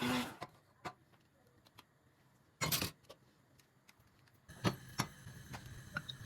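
Background music cuts off just after the start, followed by scattered light clicks and knocks of objects being handled, a short louder clatter near the middle, and a low steady hum that starts about two-thirds of the way in.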